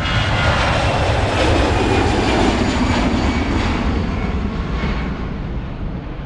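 An airplane flying past, its engine noise falling in pitch as it goes by and fading toward the end.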